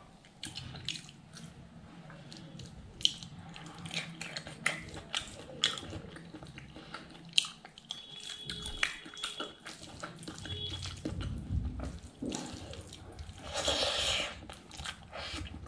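Close-miked wet chewing and lip-smacking of a person eating pork innards and rice by hand, with many short sharp smacks and a longer, louder wet stretch near the end.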